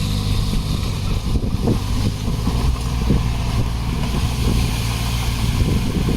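Diesel engine of heavy earthmoving equipment running steadily with a deep, even drone.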